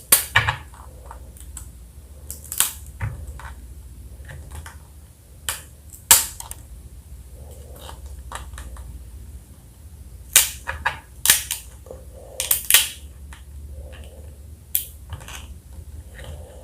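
Close-miked sounds of eating pickled blue crab: irregular sharp snaps and clicks of biting and sucking at the crab, with softer chewing between, several of them bunched together near the middle.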